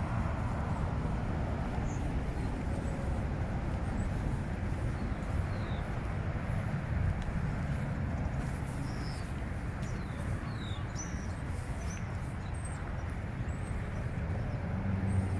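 Steady low outdoor rumble with faint, short bird chirps scattered through it from about two seconds in.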